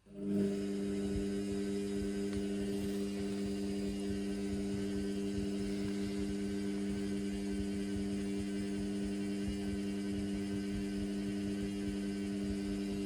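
Indesit washing machine giving a steady electrical motor hum that switches on abruptly and holds one even pitch throughout.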